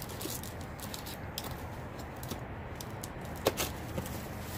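Household items being handled while unpacking: scattered light clicks and taps over a steady hiss, with a sharp knock about three and a half seconds in.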